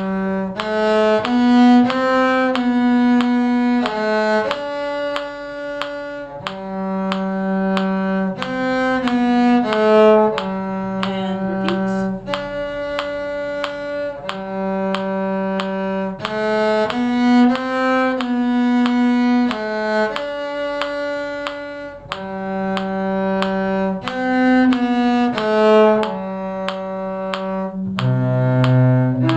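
Bowed string instruments play a simple tune in slow, even, held notes, with a melody that repeats about halfway through. Lower notes come in near the end.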